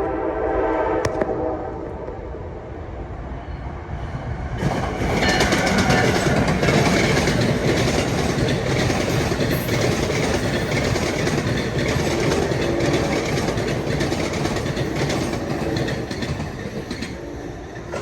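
Amtrak passenger train sounding a short horn chord, then passing close by with a loud, steady rush of wheel and rail noise and clickety-clack over the rail joints from about four seconds in.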